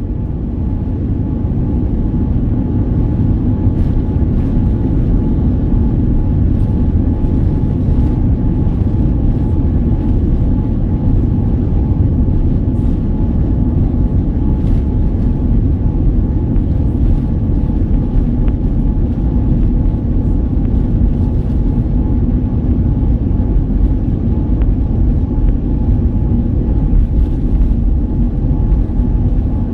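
Boeing 787 Dreamliner's jet engines running: a steady, loud low rumble with faint steady tones above it and occasional faint clicks.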